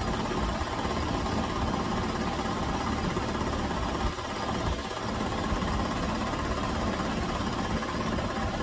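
1998 Chevy Venture's 3.4 L V6 idling steadily with the hood open, warming up while its cooling system is bled of air, before the thermostat opens.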